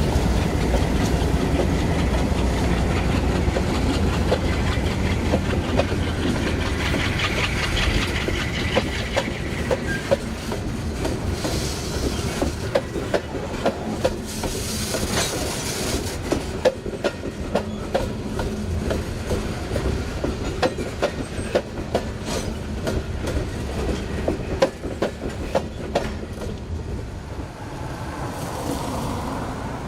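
Freight train passing: a heavy diesel rumble at first that fades, then the cars' wheels clicking over rail joints in a long clickety-clack run, with some high wheel hiss, dying away near the end.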